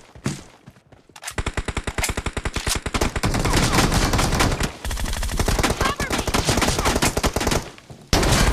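Video-game automatic rifle fire: a few faint clicks, then long rapid bursts of shots from about a second in. A short break comes near the end before another loud burst starts.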